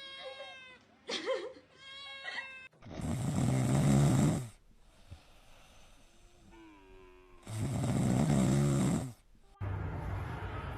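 Two short meow-like calls, then two long, loud snores about three and a half seconds apart.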